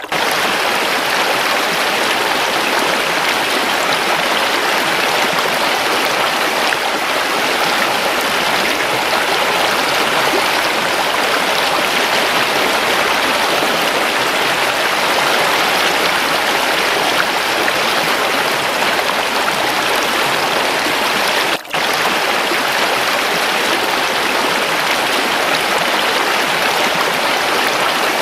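Waterfall: running water rushing steadily, with a momentary cut-out about three-quarters of the way through.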